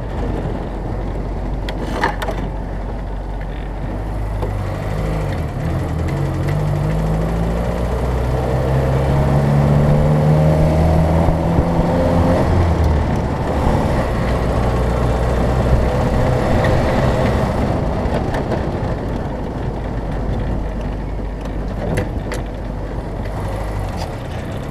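1968 Land Rover Series IIA driving along, its engine and drivetrain running with a steady low rumble; the engine note climbs as it accelerates from about four seconds in, peaks around ten to twelve seconds, then settles back.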